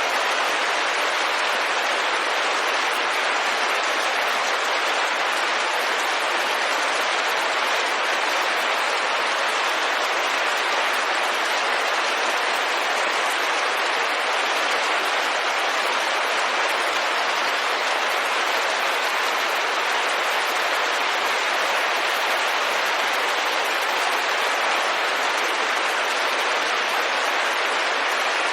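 Steady rain on a window, an even unbroken hiss of many small drops with no distinct hits or changes.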